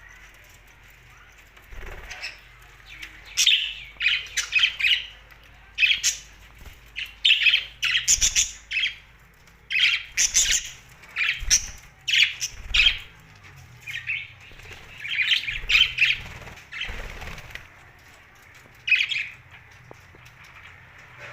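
Pet budgerigars chirping and fluttering their wings in short, sharp bursts that come in clusters every second or two.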